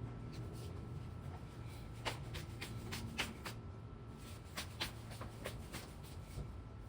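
A run of light clicks and knocks, about a dozen between two and six seconds in, over a low steady hum.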